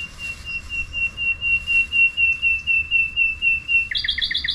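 A songbird calling close by: a long series of quick, even notes on one high pitch, about four or five a second and growing louder, then near the end a faster burst of notes on a different pitch.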